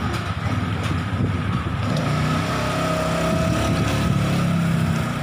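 A motor vehicle's engine running close by, a low rumbling hum that grows steadier and stronger about two seconds in.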